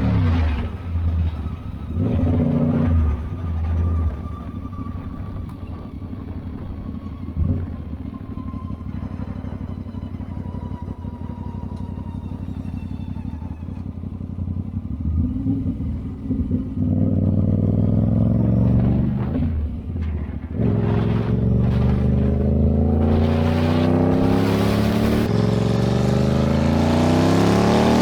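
Aprilia RS 660 parallel-twin motorcycle engine coasting off the throttle for several seconds with a thin high tone slowly falling in pitch, then accelerating hard through the gears with rising revs and a brief break at a gear change. The owner hears an unexplained strange noise on deceleration at 80–90 km/h in 4th to 6th gear that stops when the throttle is opened; chain lubrication, tension and sprocket have been checked.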